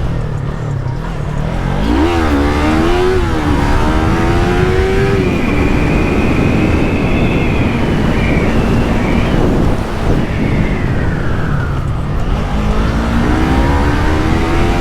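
Yamaha MT-03's parallel-twin engine on its stock exhaust revving hard as the bike accelerates through the gears: the pitch climbs steeply, drops briefly at an upshift, holds high, falls off about ten seconds in, then climbs again near the end. Steady wind noise runs underneath.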